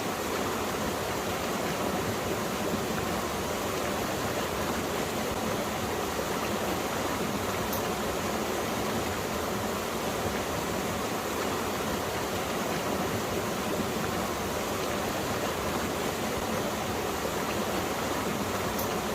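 Valley stream flowing: a steady, even rush of water.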